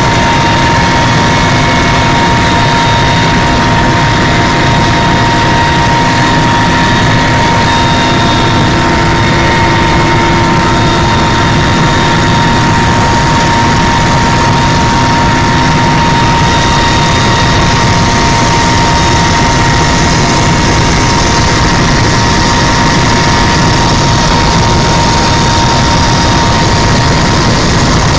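Helicopter in flight: loud, steady engine and rotor noise with a constant high whine above the rumble.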